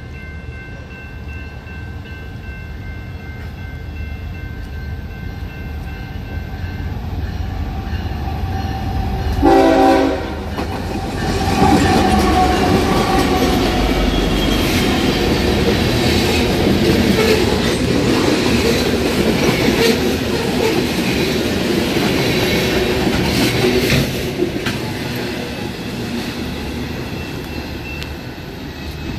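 A train approaching and passing: the rumble builds, a short horn blast sounds about a third of the way in, then the loud rumble and wheel clatter of the passing train go on for about twelve seconds before easing off.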